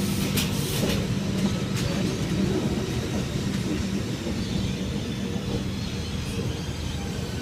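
Electric passenger train running slowly alongside the platform as it comes in to stop: a steady low hum with a few sharp clicks in the first second, easing off slowly.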